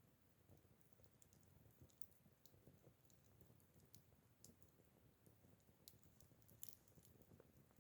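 Faint crackling of a burning acacia-wood campfire: sparse, irregular small pops, one a little louder near the end.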